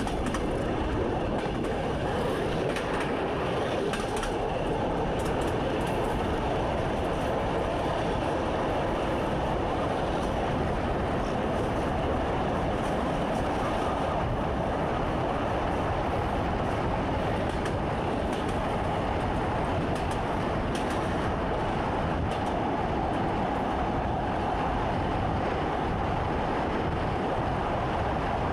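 Commuter electric train running along the track, heard from inside the driver's cab: a steady rumble of wheels on rail with a constant hum, and a few faint clicks.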